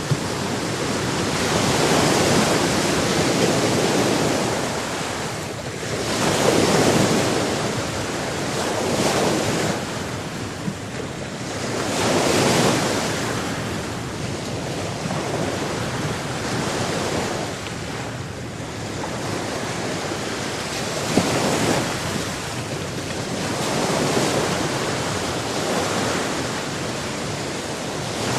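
Sea surf: waves washing in over a continuous rushing hiss, swelling and fading every five or six seconds.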